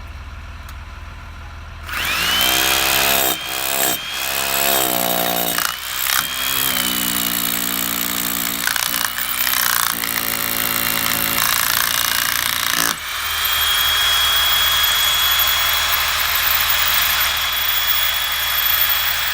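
Power drill boring a hole, starting about two seconds in; its motor pitch dips and recovers under load over the next few seconds, with short breaks, then it runs steadily.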